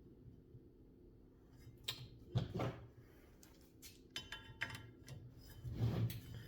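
A few scattered clicks and light knocks of small metal parts being handled and worked on a workbench, over a steady low hum.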